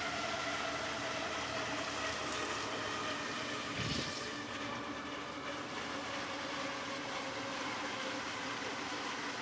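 Electrolux LTC15 washing machine running a wash cycle: a steady motor whine over an even rushing hum, with a single knock about four seconds in.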